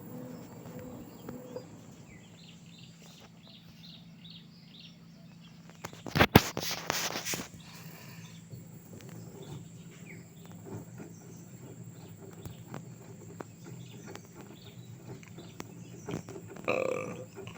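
Outdoor ambience with birds calling: a dove-like coo that stops soon after the start, then a few brief high chirps. About six seconds in, a loud sudden rush of noise lasts about a second and a half, and near the end comes a short loud call.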